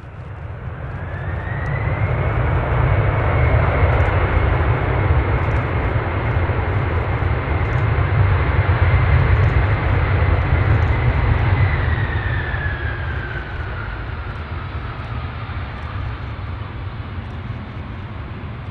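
Jet airliner passing: a deep rumble that builds over the first few seconds and a high engine whine that climbs, holds, then slides down in pitch as the sound fades after about twelve seconds.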